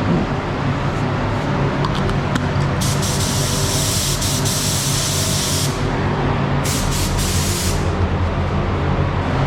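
Adhesion promoter being sprayed onto a van bumper: two hissing bursts, a long one about three seconds in and a shorter one about a second later, over a steady low hum.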